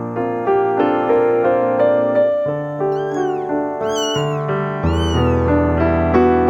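Kitten meowing three times in high, rising-and-falling cries about three, four and five seconds in, over piano background music.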